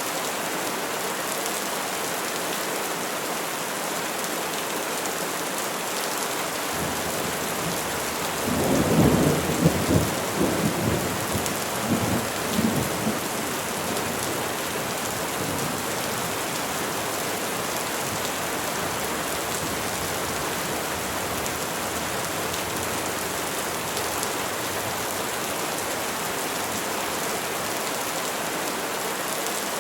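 Steady rain falling on trees, with a roll of thunder rumbling in about a quarter of the way through, swelling in a few surges and dying away after several seconds.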